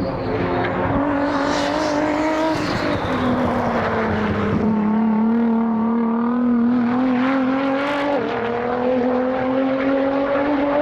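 Time-attack race car engine running hard on the circuit. Its note drops a few seconds in, then climbs steadily, with a brief dip about eight seconds in.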